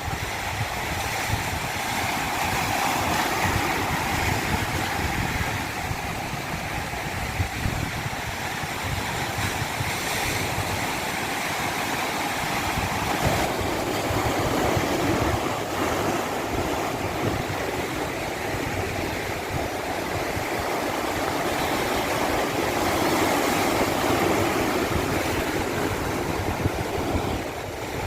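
Water of a natural stream rushing over rocks, a steady churning rush that slowly swells and eases.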